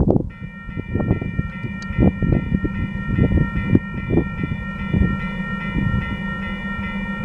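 Freight train cars rolling past, the wheels knocking and clattering over the track with a steady rumble. A steady high-pitched squeal of several tones joins just after the start and holds.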